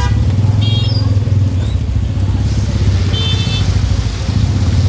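Motorcycle engine running close by in city traffic, a low pulsing rumble, with short vehicle horn toots under a second in and again about three seconds in.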